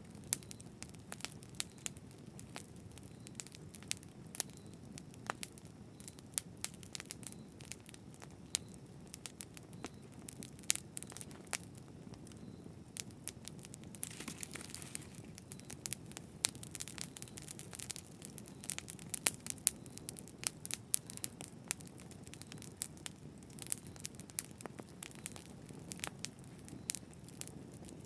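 Wood bonfire burning, a low steady flame rumble under constant irregular crackles and pops, with a brief hiss about halfway through.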